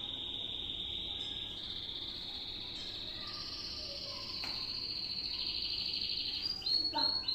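A songbird singing long, high trills, each held at one pitch for a second or so before stepping to a new pitch, then breaking into quick chirps near the end.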